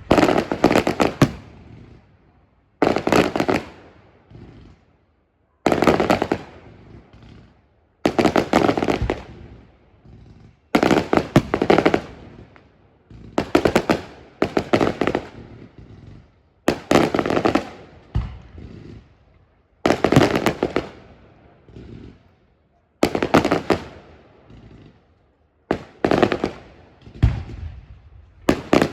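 Fireworks display: a loud burst every two to three seconds, each a sharp bang followed by crackles that fade within a second or two.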